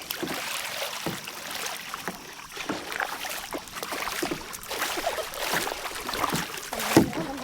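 Kayak paddle blades dipping and splashing in the water in repeated, irregular strokes while paddling hard.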